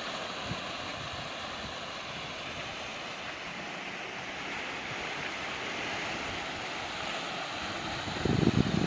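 Ocean waves washing onto a rocky beach with wind, a steady hiss that swells a little midway. A brief burst of low thumping near the end.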